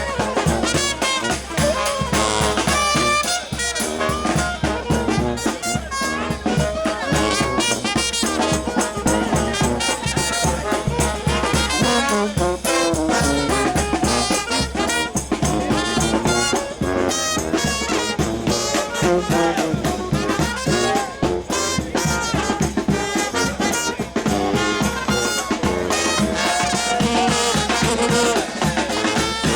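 New Orleans brass band playing a second line: trumpets and trombones over a steady drum beat.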